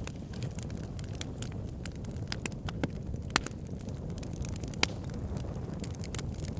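Wood fire burning in a fireplace: a steady low rumble of flames with frequent sharp crackles and pops, two of them louder, about halfway through and near two-thirds of the way.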